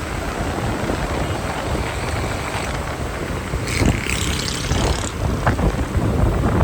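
Strong wind buffeting the microphone: a heavy, gusting rumble of noise, with a brief brighter hiss a little before the four-second mark.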